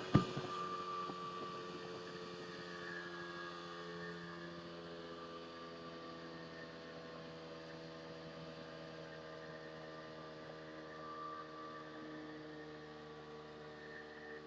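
Motorboat engine running steadily, heard as a faint hum whose pitch drifts slightly and that slowly grows fainter. A short knock sounds right at the start.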